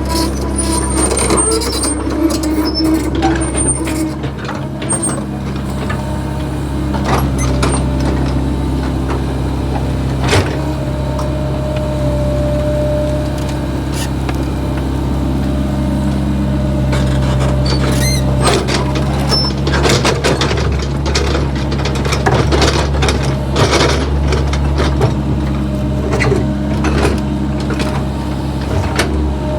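Backhoe's diesel engine running steadily, with repeated short knocks and clanks over it.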